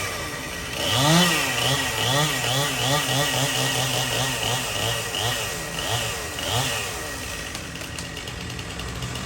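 Stihl two-stroke chainsaw running, its engine speed rising and falling over and over, then holding steadier near the end.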